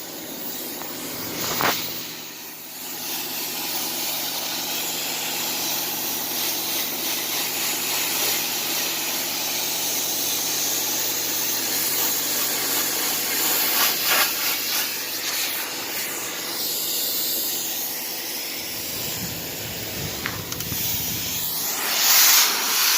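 Pressure washer spray hissing steadily against a car's body, with a steady low hum underneath that stops about three-quarters of the way through. The spray gets louder just before the end.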